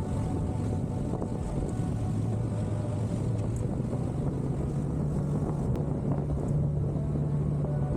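CFMoto 650 parallel-twin motorcycle engine running under way, with wind noise on the microphone. The engine note rises about halfway through and then holds steady.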